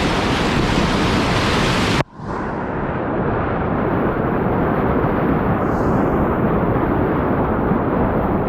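Rushing whitewater in a river hole, a loud steady rush of water with wind buffeting the microphone. About two seconds in it drops out for an instant and comes back duller.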